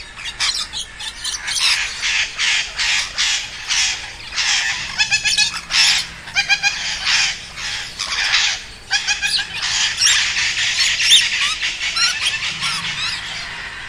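A flock of budgerigars chattering: a dense, unbroken stream of rapid, harsh chirps and warbles, with a few short runs of quick ticking notes partway through.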